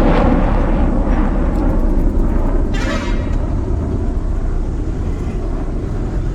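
Steady low rumble of a truck running on the road, with a vehicle horn honking briefly about three seconds in.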